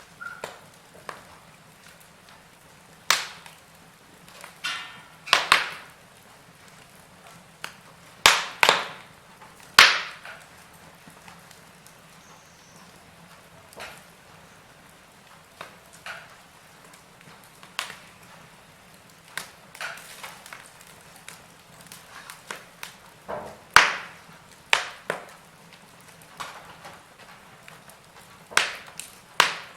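Wood fire in a fireplace crackling: irregular sharp pops and snaps, a few of them loud, over a faint steady hiss.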